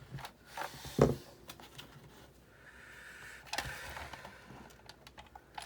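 Plastic housing parts and screws of a Sizzix Big Shot die-cutting machine being handled during reassembly: scattered clicks and knocks, the sharpest about a second in, with a faint scrape in the middle.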